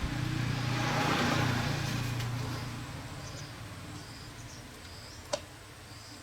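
A motor vehicle engine hum that swells and then fades away over a few seconds, with insects chirping at a steady rate and a single sharp click about five seconds in.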